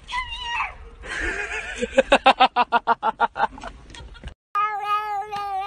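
A short high call, then a quick run of laughter-like bursts about two seconds in that fades away. After a cut, a cat gives a long, drawn-out meow that slowly falls in pitch.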